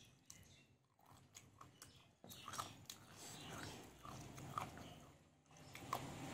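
Faint chewing of a mouthful of rice and chicken, with small wet clicks and smacks of the mouth. A steady background noise swells near the end.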